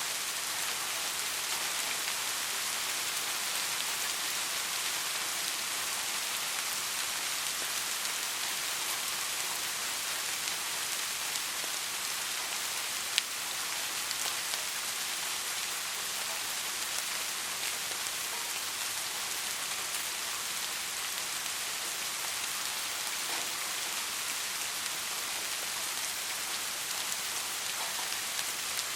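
Soft rain falling steadily, an even hiss strongest in the high range, with one sharp tick of a drop near the middle.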